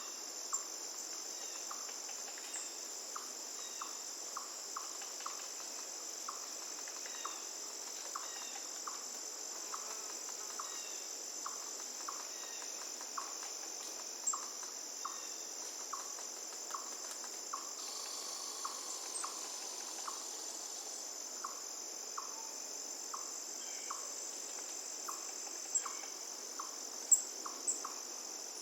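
Crickets chirping in a steady, high-pitched chorus, with a short lower note repeating about once a second and a few sharp clicks near the end.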